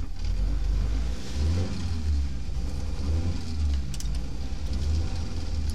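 Rally car's engine running while stationary, heard from inside the cabin, its low note swelling and easing a few times as the revs are lifted slightly.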